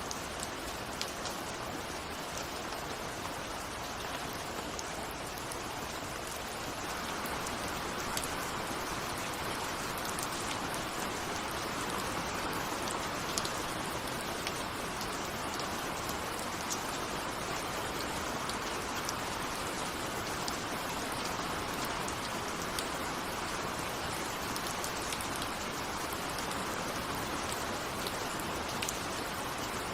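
Steady rain with scattered individual drops tapping, growing a little heavier about seven seconds in.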